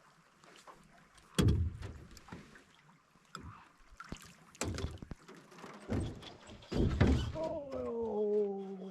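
Heavy thumps and knocks in a small fishing boat, several over a few seconds, with the loudest about a second and a half in and again around seven seconds. Near the end a drawn-out pitched sound slides slowly down in pitch.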